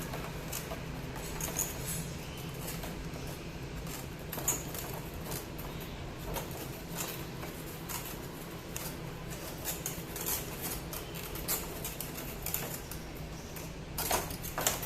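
Scattered light clicks, taps and rattles of plastic scooter fairing parts and fittings being handled and fitted during reassembly, with a louder group of knocks near the end, over a steady low hum.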